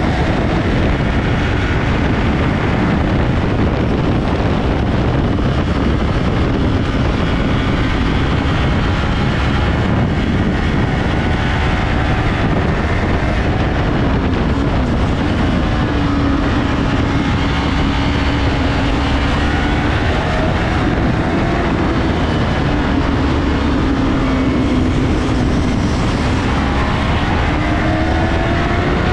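Yamaha R3's parallel-twin engine running at speed on a race track, under heavy wind rush on the onboard microphone; the engine note holds steady and rises in places as the bike accelerates.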